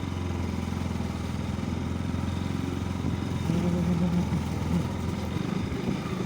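Motorcycle engine running steadily, a little louder for a moment past the middle.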